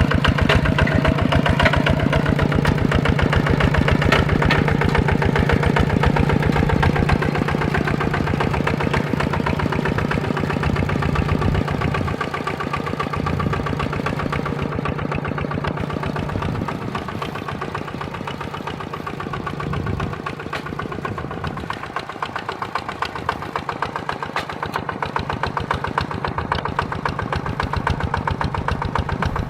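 Small mini-tractor diesel engine running steadily under plowing load, with a fast even beat of firing pulses. It fades somewhat in the middle and grows louder again near the end.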